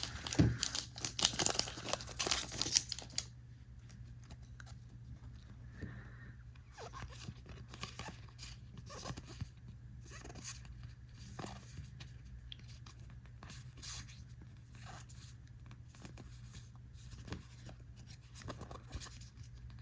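A foil trading-card booster pack torn open and crinkled for about three seconds, then softer scattered clicks and rustles of the cards being handled and flipped through one by one.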